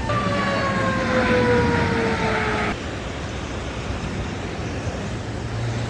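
Emergency vehicle siren sounding as a single slowly falling tone, cutting off abruptly a little under three seconds in. A steady low rumble continues after it.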